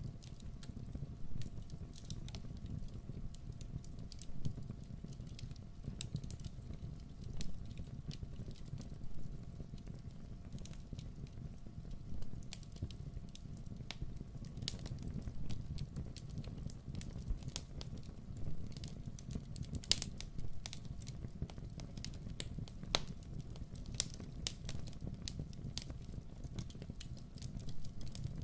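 Fire burning in a fireplace: irregular sharp crackles and pops over a low, steady rumble of the flames.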